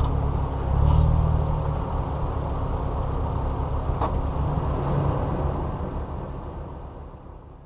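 Off-road 4x4 driving, a low engine and tyre rumble with a brief swell about a second in. It fades out steadily near the end.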